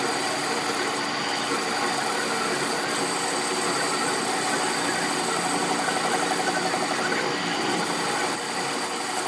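A workshop machine running steadily, with a few sharp knocks near the end.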